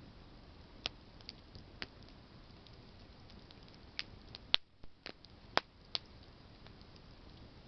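Campfire of burning branches crackling: a low steady hiss with scattered sharp pops, a few louder ones near the middle.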